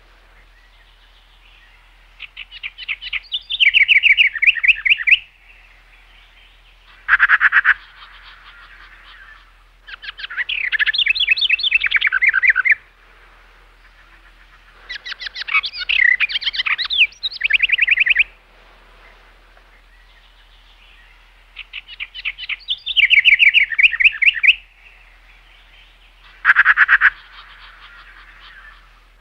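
A songbird singing: phrases of rapid chirps and trills, each one to three seconds long, with pauses of about two seconds between them. A faint steady hum sits underneath.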